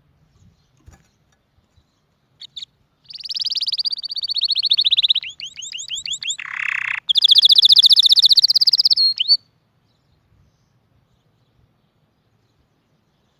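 Domestic canary singing a single song of about seven seconds made of rapid trills. Fast repeated notes give way to a run of quick down-swept notes in the middle, then to a loud trill that stops abruptly.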